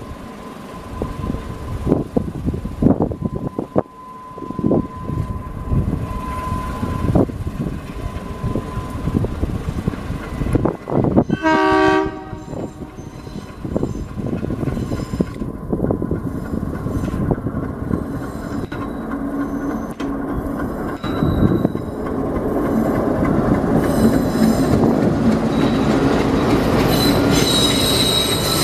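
Indian Railways diesel-hauled passenger train running along the track, wheels clattering over the rails, with one short horn blast about twelve seconds in. The running grows louder in the last few seconds, with high wheel squeal from the flanges on the curve near the end.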